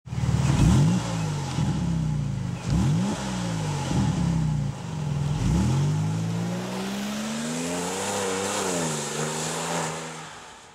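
Porsche 911 997 Turbo's twin-turbo flat-six engine revving in about five quick blips, each rising and falling sharply, then a longer, slower climb in revs that wavers and fades out near the end.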